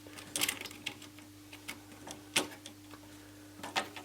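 Scattered small clicks and taps from a flat ribbon cable being fitted into its connector on a TV circuit board, with a steady low hum underneath.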